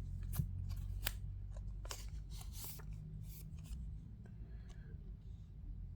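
Yu-Gi-Oh! trading cards being handled and sorted by hand: a run of short, sharp card slides and taps that thins out after about four seconds, over a low steady room hum.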